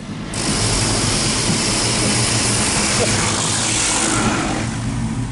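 Automatic car wash equipment blasting the car, heard from inside the cabin: a loud, steady rushing hiss that starts suddenly and holds for about four seconds over a low hum, then eases off near the end.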